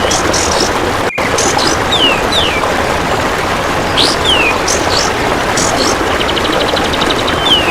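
Recorded bird song for training cage birds: short falling whistled notes and high chirps, with a rapid buzzy pulse train like an insect's stridulation near the end, over a steady loud hiss. The sound cuts out for a moment about a second in.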